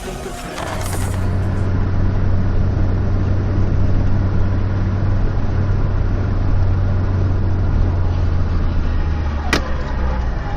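A car driving, with a steady low engine and road rumble, and a single sharp click about nine and a half seconds in.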